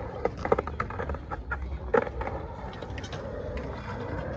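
Skateboard rolling on pavement: a steady low rumble of the wheels with a few sharp clacks, the loudest about two seconds in.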